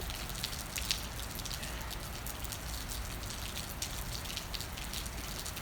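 Rain falling, a steady hiss with scattered drops tapping close by.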